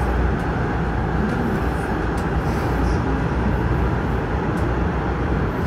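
AREX all-stop commuter train running at speed through a tunnel: a steady, low rumble of wheels on rails and running gear.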